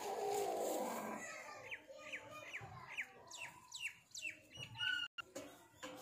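A burst of noise in the first second, then short, sharply falling bird chirps repeated about twice a second, ending in a briefly held note.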